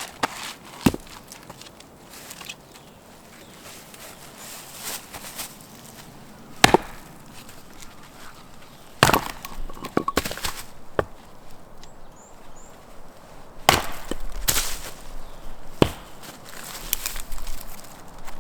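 Wood being chopped with a blade: irregular sharp knocks, some with a splintering crack as pieces split off.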